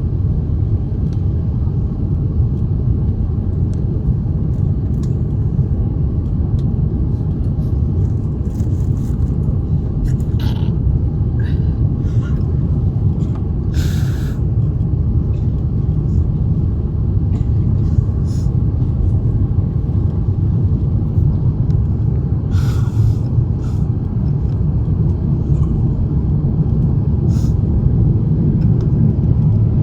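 Steady low rumble inside the cabin of an Airbus A350-900 airliner, with a few short clicks or rattles.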